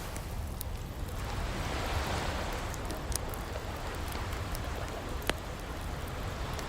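Ocean waves washing in and receding in slow swells, layered with the crackle of a wood fire: scattered small snaps and one sharper pop about five seconds in.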